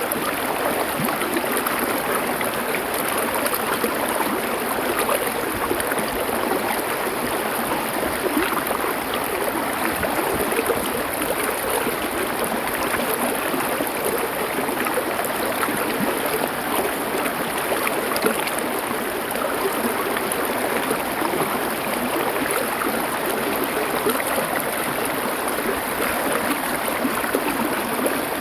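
A stream of water flowing over stones, a steady, even rush.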